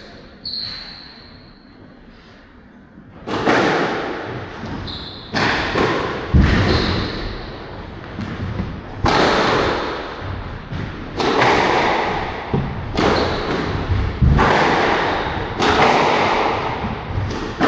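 Squash rally: the ball struck by rackets and hitting the court walls, sharp echoing impacts every second or two, starting about three seconds in.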